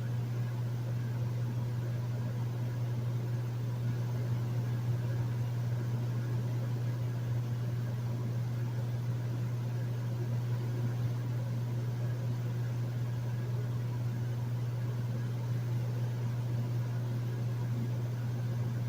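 Hotel room air conditioner running steadily: a constant low hum under an even airy whoosh, with no change throughout.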